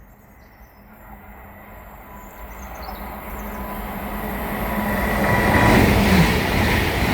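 Hitachi Class 800 IET passenger train approaching at speed and passing through the station, growing steadily louder. A humming note drops in pitch as the train goes by, about six seconds in.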